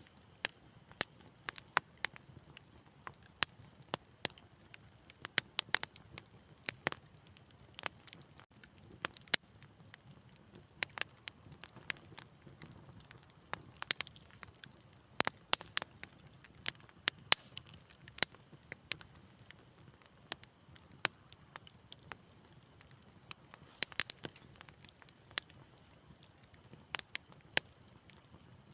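Wood fire crackling, with sharp irregular pops and snaps several times a second over a soft low hiss of burning.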